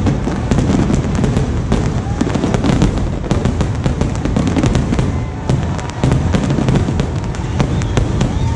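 Aerial fireworks bursting overhead: a continuous barrage of booms and many sharp pops and bangs in quick succession.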